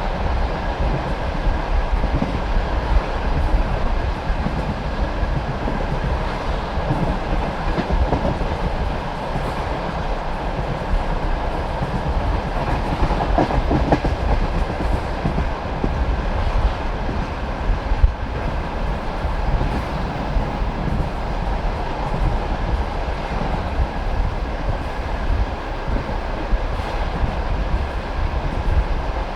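Passenger train carriage running at speed: a steady rumble with the clickety-clack of the wheels over the rail joints and a few sharper knocks.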